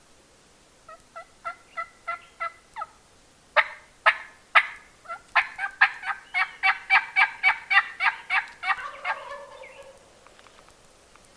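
Turkey calling: a run of six even yelps, then louder yelps in a longer, faster series of about four a second that trails off near the end.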